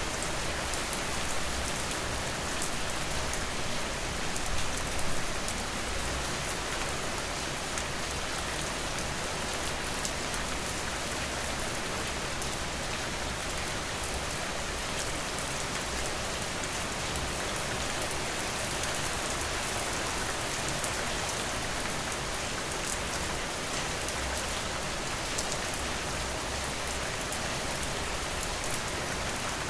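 Steady rain falling: an even, dense wash of sound with fine ticks of individual drops.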